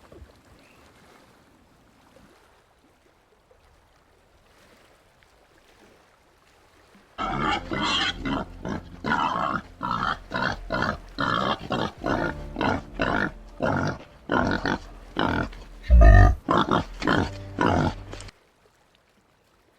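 White-lipped peccary calling: after a few quiet seconds, a long run of loud, rapid rasping calls, about two a second, with one heavy low thump near the end.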